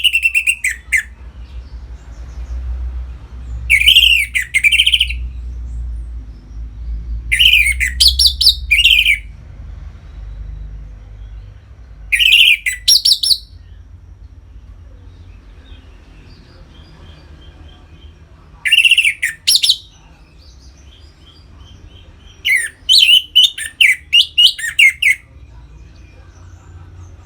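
Orange-headed thrush singing its loud 'ngeplong' song: about six short phrases of quick, varied notes, each a second or so long, with pauses of a few seconds between them. A faint low rumble lies underneath.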